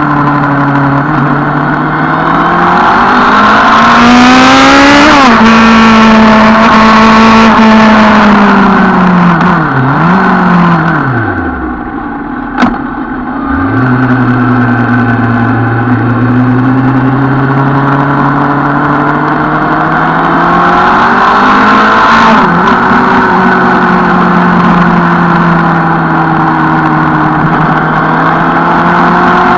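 Suzuki Bandit 650 N's inline-four motorcycle engine pulling through the gears on the road. It revs up to an upshift about five seconds in, rolls off to a low point around ten to thirteen seconds with a single sharp click, then accelerates again with another shift about twenty-two seconds in.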